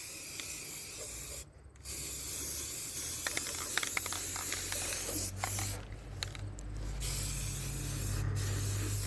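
Aerosol spray paint can hissing in long bursts as paint is sprayed, broken by short pauses where the nozzle is let go, about a second and a half in, around the middle, and once more near the end.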